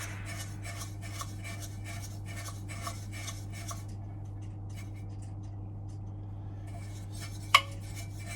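Quick brush strokes scraping dust off the fins of a boiler fan, about three a second, stopping after about four seconds; a single sharp click near the end.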